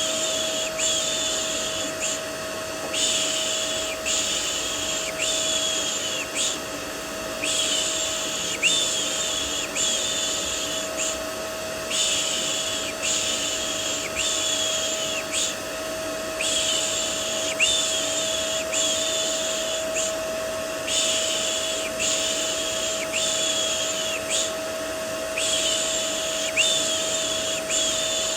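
Vacuum cleaner white noise running as a steady drone, with a rhythmic 'shh' shushing for soothing a baby laid over it. The shushes come in runs of four or five, each under a second long, with a short pause between runs.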